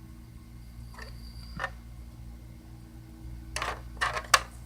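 Light taps and clicks of small plastic toy figures and props being handled and set down: two faint ones, then a quicker group of three sharper clicks near the end.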